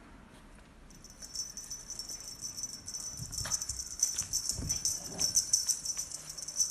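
Rapid, continuous high-pitched jingling starting about a second in, like a small metal bell or rattle being shaken hard, with a few soft low thumps midway as the animals play.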